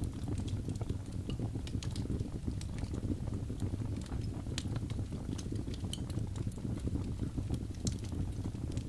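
Fire crackling: irregular sharp snaps and pops scattered over a steady low noise of the flames.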